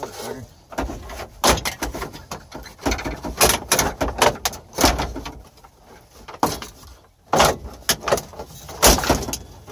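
A GMC dashboard being pried and ripped apart by hand: an irregular run of loud cracks, snaps and knocks, with a short lull about seven seconds in.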